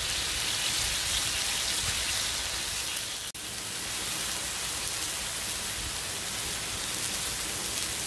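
Chicken breasts, freshly brushed with a sugary moonshine sauce, sizzling steadily on a hot flat-top griddle. The hiss drops out for an instant about three seconds in.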